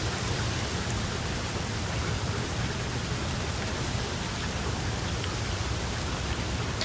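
Steady rain falling, an even hiss with a low rumble beneath and a few faint drop ticks.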